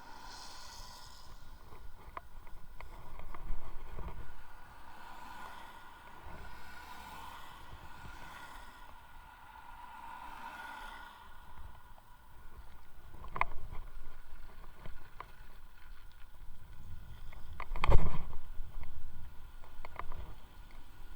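Electric unicycle ride: wind rumble on the microphone that swells and fades, a faint steady whine, and a few sharp knocks from the ride, the loudest near the end.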